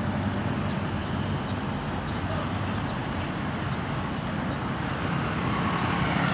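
A steady low rumble, like a running engine, with no distinct events.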